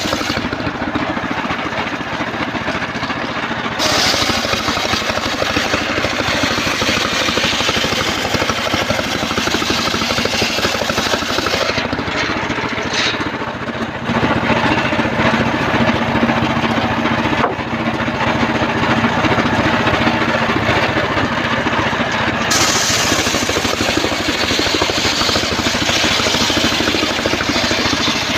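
Homemade engine-driven circular sawmill running continuously, its blade cutting through a trembesi (rain tree) log. The cut turns harsher and hissier a few seconds in and again near the end, with a short easing in between.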